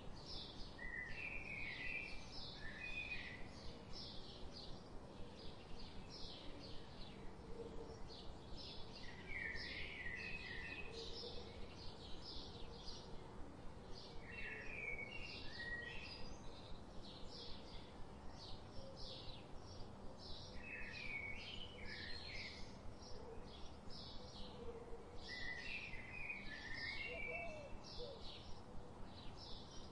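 Birds chirping: short high chirps repeating about twice a second, with a lower warbling phrase coming in every five or six seconds.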